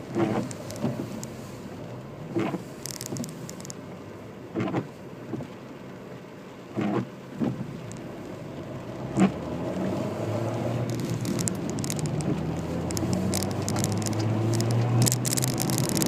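Citroen C4 cabin on the move: loud clicks roughly every two seconds from the phone mount and the windscreen wipers. From about halfway the engine note rises steadily as the car accelerates in gear.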